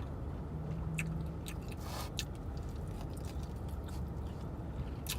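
Chewing and lip-smacking on fried chicken wings, with scattered short wet mouth clicks, over a steady low hum.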